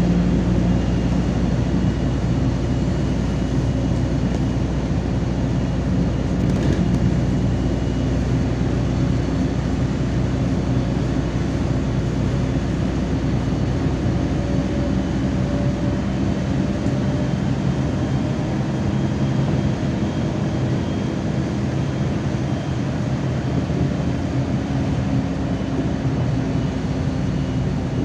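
Interior noise of a MAZ-203 city bus under way: a steady engine drone with road noise, its tone shifting slowly as the speed changes.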